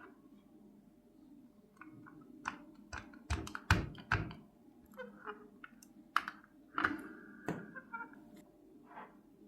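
Irregular small taps, clicks and knocks of small parts and tools being handled on a work surface, with a cluster of louder knocks about three to four seconds in.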